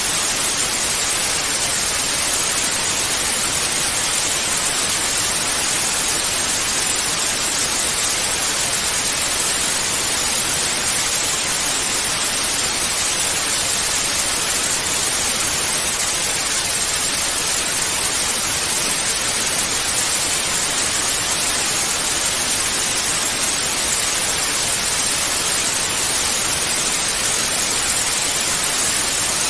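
Television static hiss (analogue TV snow): a steady, even rush of noise weighted toward the high frequencies, with no change throughout.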